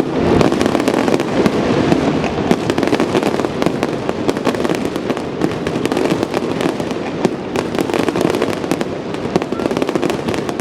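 Fireworks display: many shells bursting in quick succession, a dense, unbroken run of sharp cracks and pops over a steady rumble.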